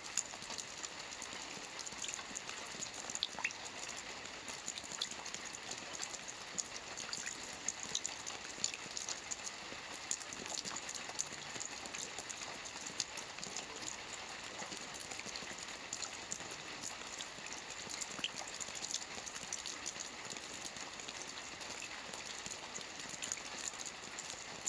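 Soft rain falling steadily on a roof, a continuous hiss with many small drop ticks.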